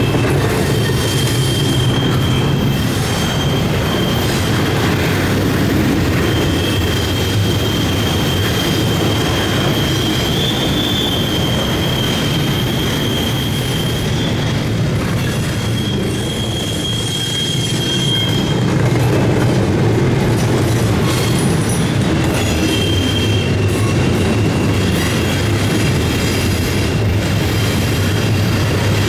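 Long CSX intermodal freight train rolling past, the cars giving a steady low rumble while their wheels squeal on the curve in a thin high-pitched tone that comes and goes.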